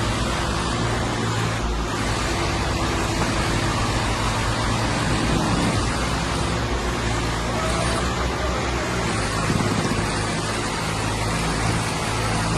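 A heavy diesel engine running steadily at a constant speed.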